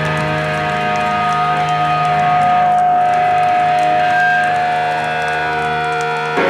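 Live rock band's electric guitars holding long, ringing chords with no vocals, with a sudden new attack near the end.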